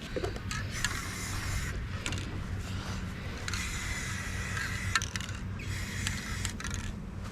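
Spray paint hissing from an aerosol can in several long passes with short breaks between them and a few sharp clicks, over a steady low hum.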